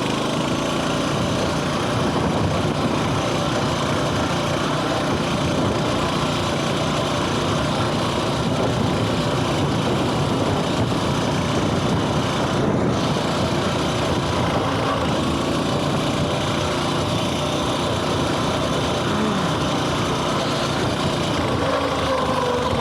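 Coleman mini bike's small single-cylinder engine running steadily while riding.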